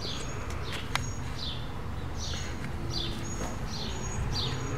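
A songbird singing a run of short down-slurred whistled notes, repeated every half second or so, over a steady low outdoor background rumble. A single sharp tap about a second in.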